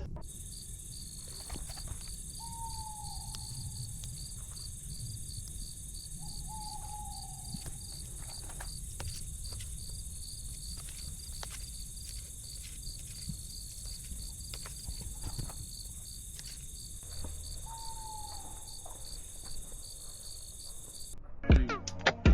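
Insects chirring steadily in a fast, even pulse, with a bird giving a short falling call three times. Scattered faint clicks and a low background rumble underneath.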